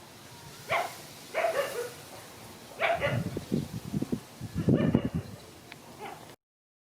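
A dog barking, about five short barks spaced out, with some low rumbling between the later ones.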